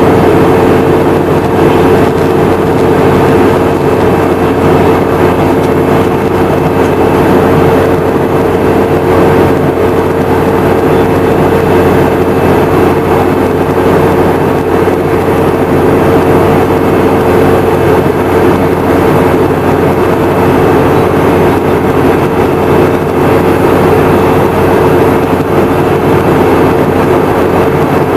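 Boeing 717-200 cabin in flight: steady drone of the tail-mounted Rolls-Royce BR715 turbofans mixed with airflow rush, with a constant hum holding one pitch.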